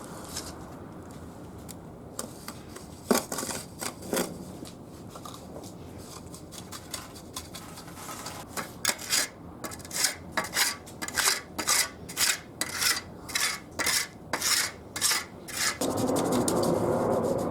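Hand tool rasping back and forth on a hard surface in even strokes, about two a second, after a couple of knocks. A steady rushing noise takes over near the end.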